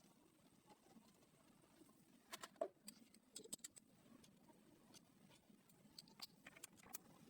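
Faint, scattered light clicks and taps over quiet room tone, the loudest cluster a little over two seconds in and more near the end.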